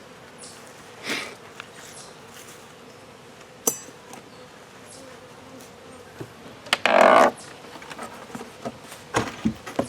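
Honeybees buzzing around an open hive, with scattered knocks and clicks of hive parts being handled as the hive is closed up, and a loud scrape about seven seconds in.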